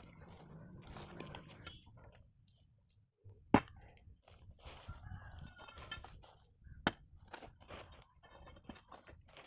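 Faint scraping with two sharp cracks, about three and a half and seven seconds in, as the wall around a stingless bee nest is broken open by hand.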